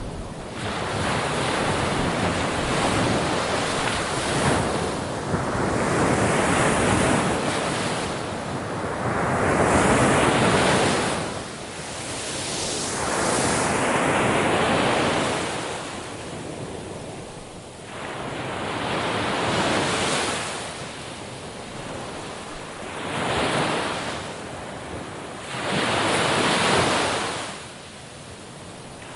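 Ocean waves breaking on a shore: surf that swells and washes back every few seconds, about seven surges in a row.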